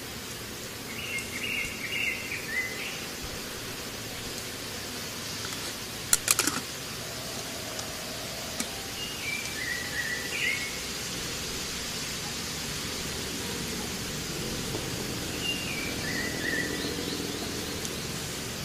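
Outdoor ambience: steady background hiss with a bird calling three times, each call a short run of chirps stepping down in pitch. A brief cluster of sharp clicks about six seconds in.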